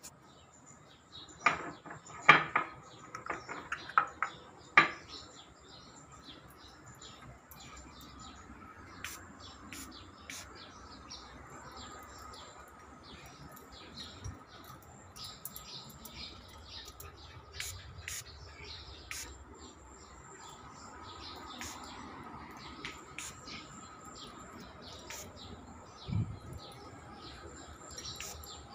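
Small birds chirping, with many short high tweets. In the first five seconds there are a few louder sharp clicks, and a single low thump comes near the end.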